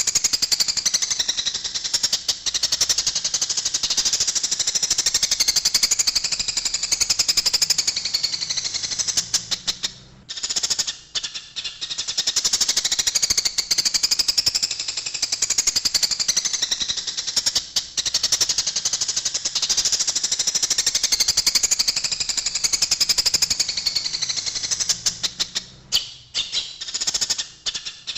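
Eurasian tree sparrows chirping in a fast, dense, agitated stream, the excited calling of sparrows fighting. The chirping dips briefly about ten seconds in and again near the end, and the same passage repeats about every sixteen seconds, as from a looped recording.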